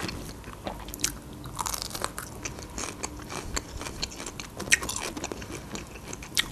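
Close-miked biting and chewing of a pickled pepper: crisp crunches and wet mouth clicks at an uneven pace, with a louder crunch near the end.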